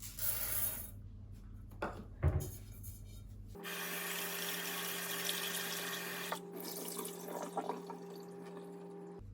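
Steady running water, as from a tap, starting a few seconds in, after a few short rustles and a sharp knock.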